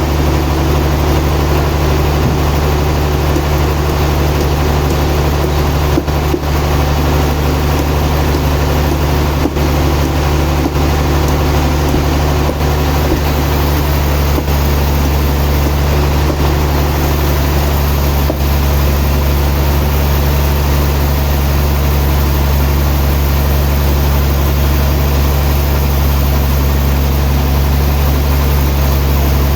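Sawmill machinery's engine running steadily at a constant speed, a loud even drone with a few faint knocks.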